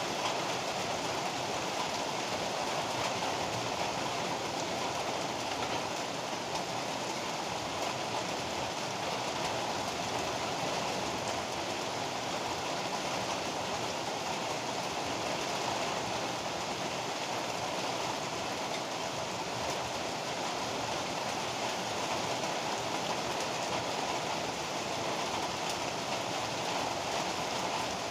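Heavy rain falling steadily, an even hiss without thunderclaps or changes in level.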